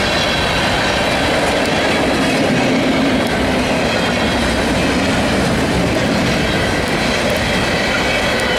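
Freight cars of a Canadian National mixed train rolling past: tank cars, then centerbeam flatcars loaded with lumber, then a covered hopper. The wheels make a steady rumble and rattle on the rail, with thin, high steady whining tones over it.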